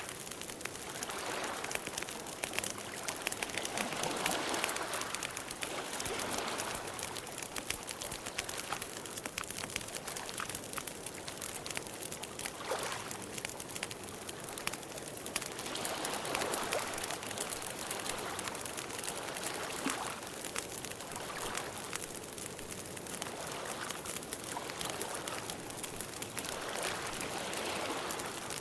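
Campfire burning: a dense run of small crackles and pops over a soft rushing of flames that swells and fades now and then.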